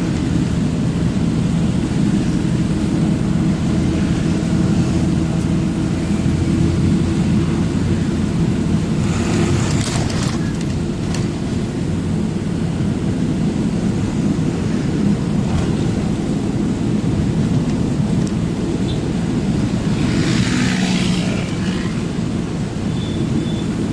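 Truck running with a steady low engine drone, with two brief hissing rushes, one about ten seconds in and one about twenty seconds in.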